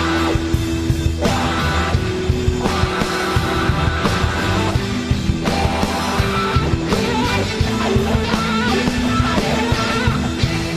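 Blues-rock band playing an instrumental passage: electric guitar over bass and a steady drum beat, no vocals.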